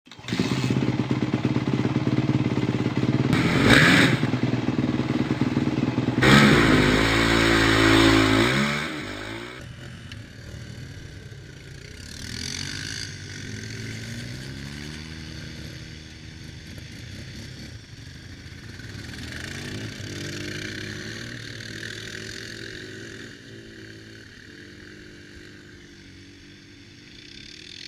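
Dirt bike engines running and revving. The engine is loud and close for the first nine seconds or so, then the revs drop away. After that the engine sound is quieter, rising and falling in pitch as the throttle is worked.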